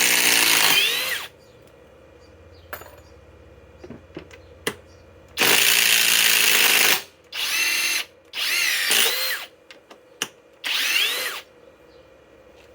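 Flex FX1371A Quick Eject cordless impact driver backing out long timber screws, running in five loud bursts with pauses between, the motor pitch gliding as each run starts and stops.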